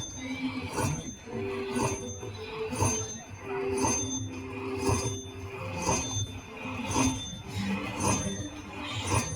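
Slot machine chiming: bright bell-like dings about once a second over short electronic tune notes, the machine's feature sounds as a spin or bonus plays out.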